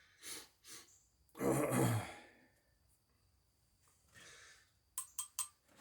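A man sighs, a breathy exhale with a little voice in it, about one and a half seconds in. Near the end come four quick, sharp clicks.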